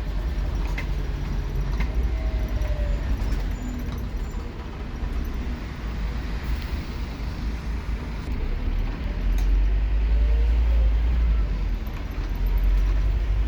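Inside a Scania K230UB Omnilink bus on the move: its nine-litre five-cylinder diesel drones low and steady under the road and cabin noise. It eases off for a few seconds, then pulls harder and louder from about nine seconds in. Light rattles and clicks from the bus interior come through early on.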